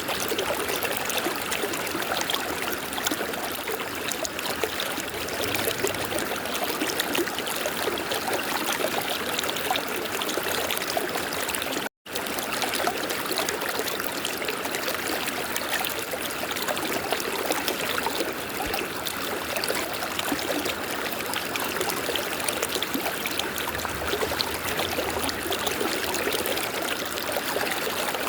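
River water running in a steady rush, with a split-second drop-out about twelve seconds in.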